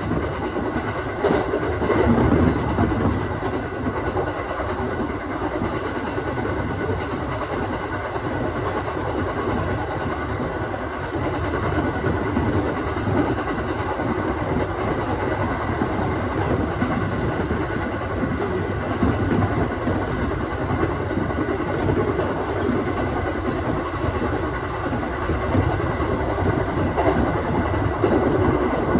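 Aoimori Railway 701 series electric train running along the line, heard from inside at the front: steady rolling and motor noise with wheels clicking over rail joints.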